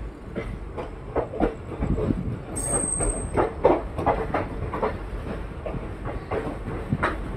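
Passenger train coaches rolling into a station, their wheels knocking irregularly over rail joints and points above a low running rumble. A brief high squeal comes about two and a half seconds in.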